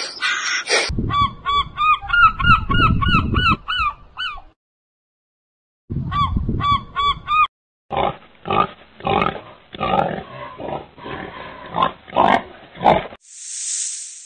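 Several animal sound clips in a row: a run of rapid honking bird calls, about four a second over a low rumble, repeated after a short silence; then a long series of rough, rhythmic pulsed animal sounds, about two a second; ending with a short high hiss.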